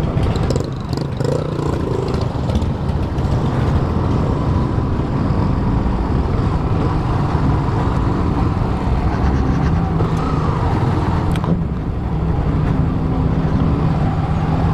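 Honda CB 250F Twister's single-cylinder engine running as the motorcycle is ridden, its note shifting up and down with the throttle.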